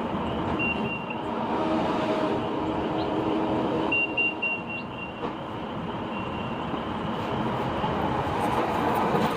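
Small tractor's engine running steadily while it works, with a reversing alarm giving short high beeps in two runs, once about half a second in and again for about a second from around four seconds in.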